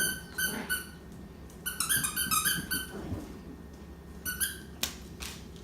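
A squeaky dog toy squeezed over and over: short, high squeaks coming in bunches, with a quick run of about six squeaks about two seconds in. Two sharp knocks near the end.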